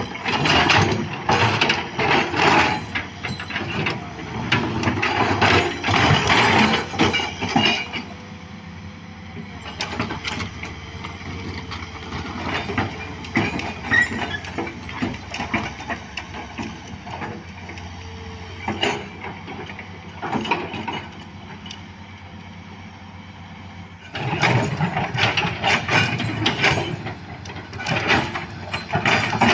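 Excavator at work on a road widening: dense metallic clanking and scraping over a running diesel engine. It drops to a steady engine hum with occasional knocks about eight seconds in, then the clatter resumes near the end.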